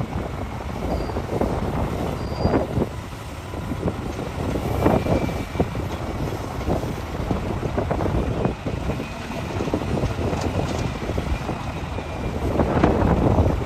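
Hitachi excavator's engine running under load while it digs rock, with scattered knocks and clatter of rock against the bucket; it gets louder near the end.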